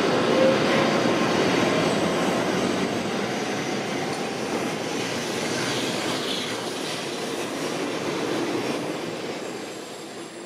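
N700S shinkansen bullet train pulling out of the station as its cars slide past close by: a steady rush of wheels and running gear. The noise fades off over the last couple of seconds as the train draws away.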